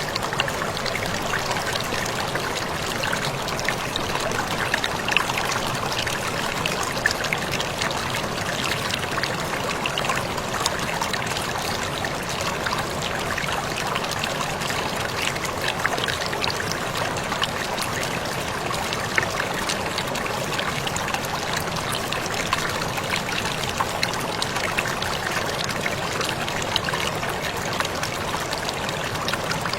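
Small waterfall splashing steadily, with many small droplet splashes dotted through it.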